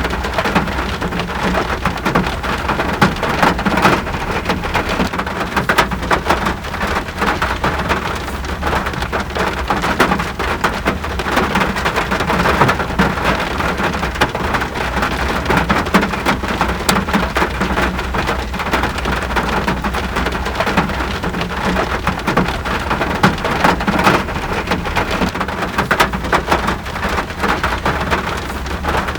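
Steady rainfall: a dense, even patter of countless drops striking a surface, with a constant low rumble underneath.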